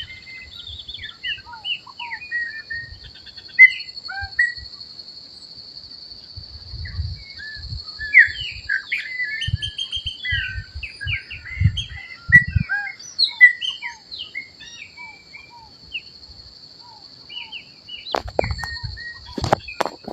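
Chopi blackbird (pássaro-preto) singing a long run of varied whistled notes and chirps, busiest in the middle. A steady high-pitched whine runs behind it, and there are scattered low thumps on the microphone.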